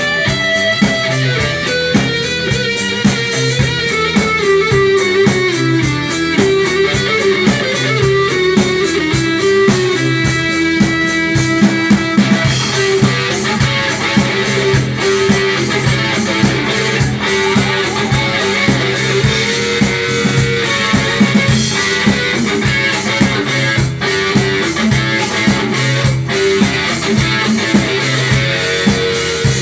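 Rock band playing an instrumental passage: electric guitar over a drum kit with a steady beat.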